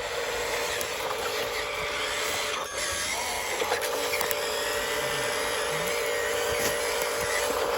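Radio-controlled dump truck's small electric motor and gears whining steadily, with a brief dip between two and three seconds in.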